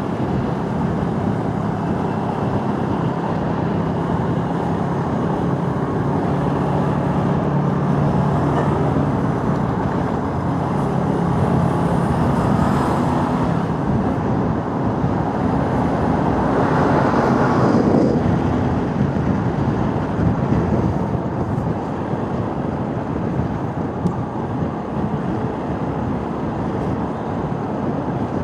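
A motorcycle being ridden in traffic on a rough, potholed road: its engine runs under a steady rush of wind and road noise. About 17 seconds in, a louder rush swells and drops in pitch.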